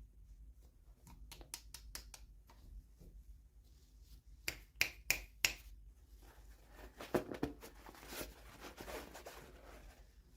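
Small plastic toy packaging being handled and opened: scattered light clicks and taps, three sharper clicks about halfway, then a few seconds of rustling.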